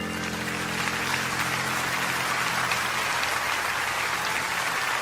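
Audience applauding, a dense steady patter of clapping, while the song's final chord dies away underneath over the first couple of seconds.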